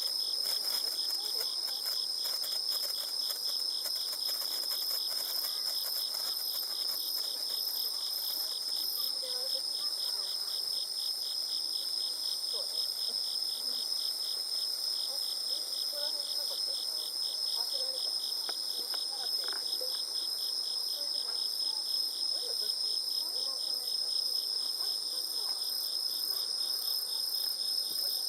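A chorus of night insects, crickets among them: a steady high trill over an evenly pulsing chirp repeating a few times a second, running unchanged throughout.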